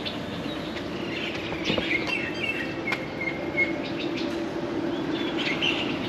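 Birds chirping, with a quick run of short calls about two seconds in, over a steady low hum.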